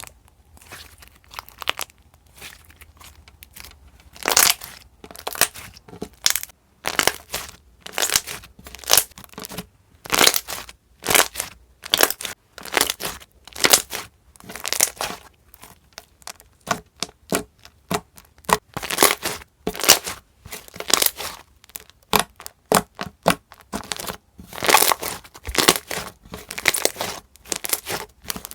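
Thick slime being squeezed and kneaded by hand, giving an irregular run of sharp crackles and pops, a few each second.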